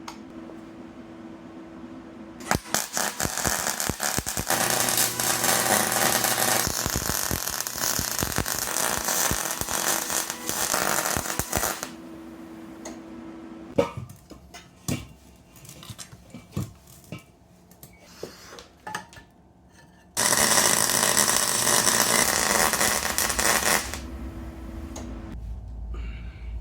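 A power tool running on exhaust tubing in two long loud runs, the first about ten seconds and the second about four, with scattered knocks and clicks between them.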